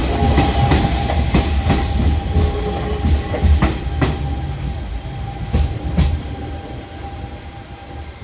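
Hanshin Electric Railway electric train cars rolling past close by, with a heavy rumble and a steady high whine. The wheels clack over rail joints in pairs, and the rumble fades toward the end as the train moves away.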